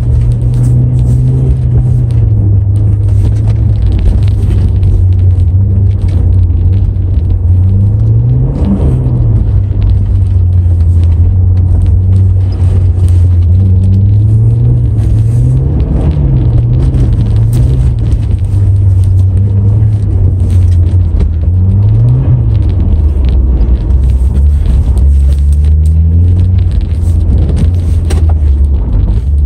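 Car engine heard from inside the cabin while driving, a loud low drone. The revs rise and fall briefly three times, about a third of the way in, about halfway and about three quarters in, then climb again near the end.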